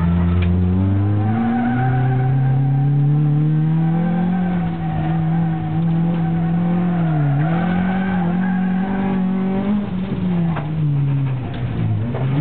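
Rally car engine heard from inside the cabin under hard driving, its note climbing with the throttle, dipping twice briefly in the middle and falling away near the end as the car slows.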